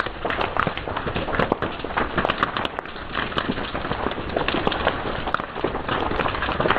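Fire crackling, with frequent irregular sharp snaps and pops over a steady hiss.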